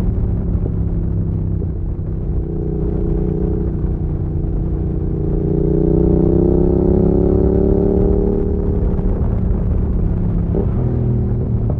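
Yamaha XSR700's parallel-twin engine through an aftermarket IXRACE MK2 exhaust, heard from onboard while riding. The engine note climbs steadily under acceleration from about three seconds in, levels off, then drops lower near the end.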